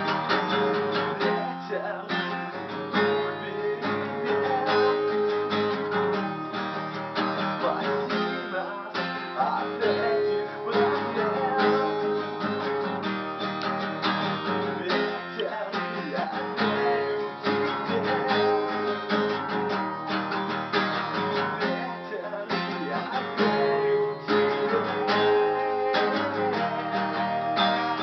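Acoustic guitar strummed steadily in an instrumental passage of a rock-blues song, with no singing.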